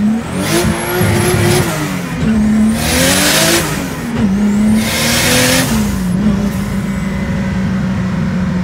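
Turbocharged 2JZ inline-six in a drift-built FR-S revved three times, a thin high whistle rising with each rev, then settling to a steady idle for the last couple of seconds.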